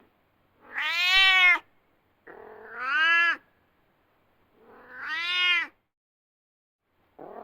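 Domestic cat meowing three times, each meow about a second long and arching up then down in pitch, with a short pause between them; a fourth meow begins right at the end.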